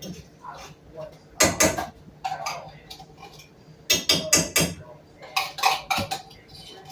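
A kitchen utensil knocking and scraping against a cooking pot during stirring, in three short clusters of sharp clanks about a second and a half, four, and five and a half seconds in.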